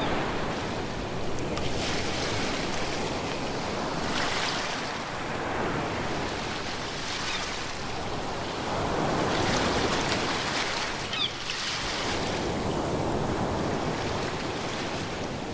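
Ocean waves washing ashore: a steady surf hiss that swells and eases every few seconds as the waves break and draw back.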